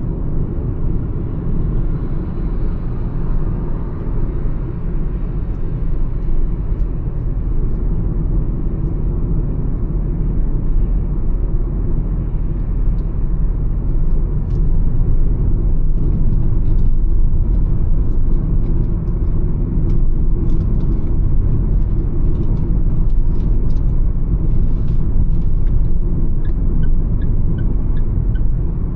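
Mahindra XUV 300 cruising on the highway: a steady low rumble of road and engine noise that grows a little louder partway through. A few faint, evenly spaced ticks come near the end.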